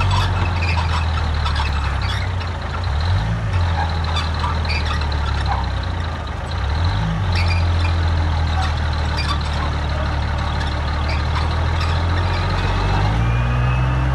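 Heavy diesel engine of earthmoving machinery running under load, its pitch dipping twice and rising near the end, with metallic clanking over it.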